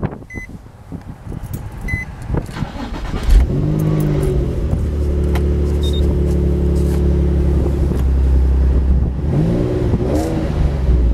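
Twin-turbo Nissan 350Z V6 being started. A chime beeps twice, the engine catches suddenly about three seconds in, and the revs flare and settle into a steady idle. Near the end come a few quick throttle blips that rise and fall in pitch.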